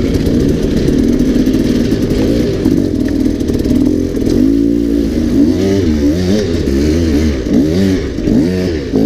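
Dirt bike engine running hard. From about halfway through it revs up and down again and again in short rising-and-falling sweeps as the throttle is worked.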